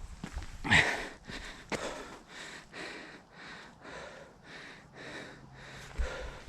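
Trail runner breathing hard and footfalls on a dirt trail while running uphill, in an even rhythm of about three strokes a second, with one louder breath or step about a second in.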